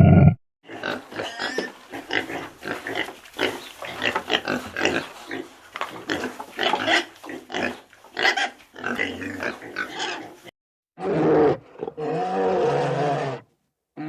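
Pig grunting in quick, irregular short bursts for about ten seconds. After a short pause comes a longer, pitched animal call.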